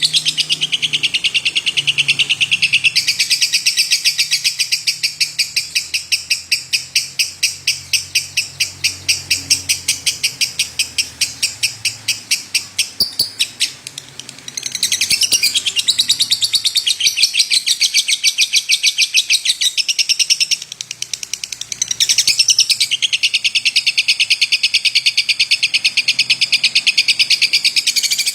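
Lovebird singing a long, rapid chattering run of shrill chirps, many a second, broken by two short pauses about halfway and about three quarters in.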